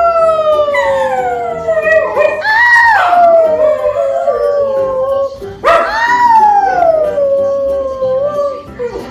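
Dog howling: long drawn-out howls that slide slowly down in pitch, with a fresh howl starting about two and a half seconds in and another near six seconds.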